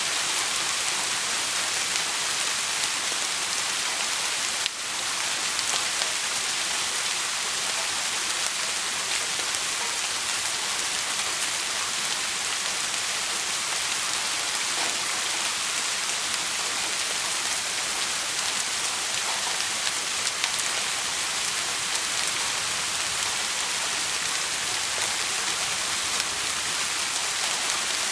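Steady, dense rain hiss with no thunder. There is a single brief click about five seconds in.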